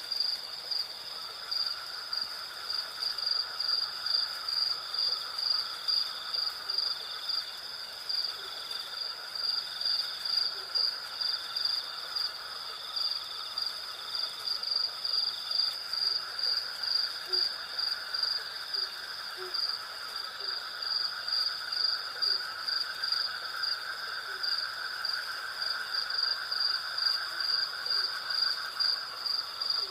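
Night chorus of crickets and other insects: a high, rhythmically pulsing chirp over a steadier, lower buzz, the pulses coming about once a second.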